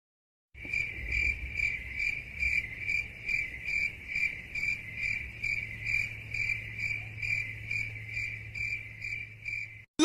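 Cricket chirping sound effect, a steady high chirp pulsing about two and a half times a second over a low hum. It starts about half a second in and cuts off abruptly near the end: the stock 'crickets' meme sound for an awkward silence.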